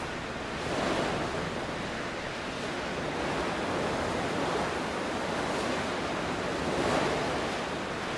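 Sea surf washing in: a steady rushing of waves that swells a little about a second in and again near the end.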